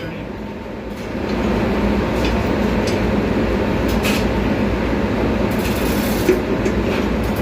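Steady machinery rumble, with a few short clicks and knocks over it.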